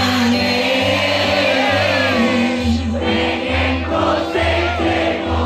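Loud music from a big outdoor sound-horeg loudspeaker rig, with heavy pulsing bass and a sung vocal line over held tones.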